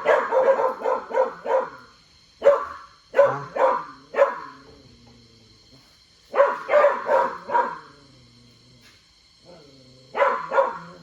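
A dog barking in four bursts of several quick barks each, with pauses of a few seconds between them, over a faint steady high-pitched whine.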